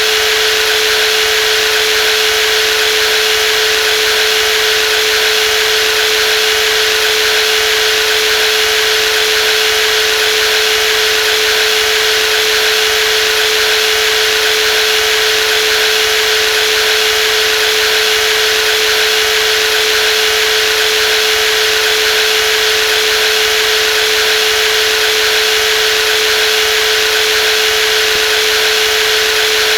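Brushless jigsaw running steadily, a constant motor whine with one strong held pitch over an even buzzing hiss, with no change in speed.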